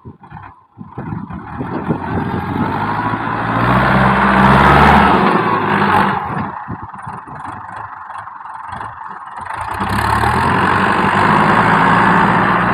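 Ford 6600 tractor's three-cylinder diesel engine running and revved twice: it builds up about three or four seconds in, drops back around six seconds, and picks up again about ten seconds in.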